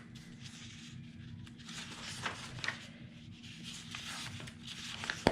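Paper and cardstock rustling and sliding in several short stretches, with a few light taps, as die-cut craft pieces are handled.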